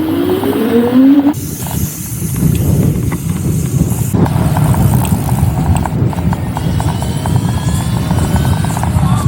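Electric scooter being ridden at speed, with a steady heavy rumble of wind on the microphone. The motor's whine rises in pitch in the first second, and again faintly near the end as it speeds up.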